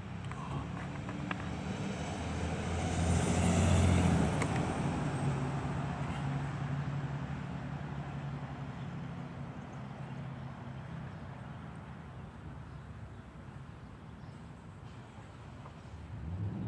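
A motor vehicle passing: its engine hum grows louder to a peak about four seconds in, then slowly fades away.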